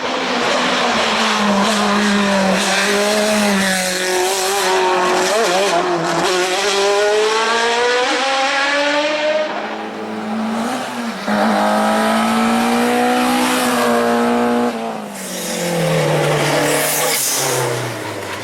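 Car engine revving hard, its pitch climbing and falling in long sweeps several times and dropping low near the end.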